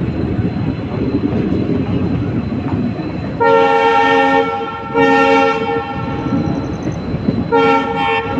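A diesel passenger train running with a steady rumble, its locomotive horn sounding three blasts: two of about a second each, then a shorter one near the end.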